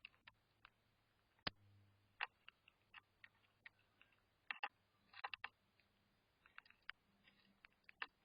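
Faint, irregular clicks and taps, like birds pecking and cracking seed at a feeder, spaced unevenly with a few quick doubles.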